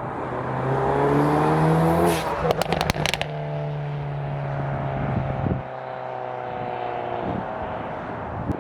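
Hyundai Veloster N's turbocharged 2.0-litre four-cylinder accelerating hard with rising revs, then a quick rattle of exhaust pops and crackles about two and a half seconds in. The engine then runs on at a steadier, slowly falling note and cuts off about seven seconds in.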